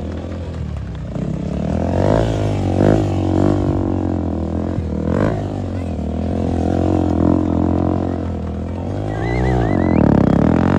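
Motorcycle engine revving up and down again and again, its pitch rising and falling with the throttle, with a big rise and fall near the end.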